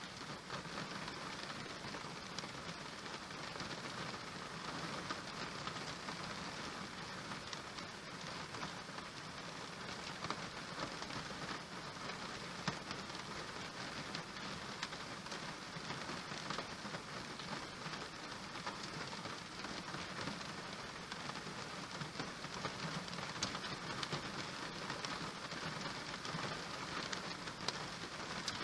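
Steady rain falling on surfaces, a continuous even hiss dotted with small individual drop taps.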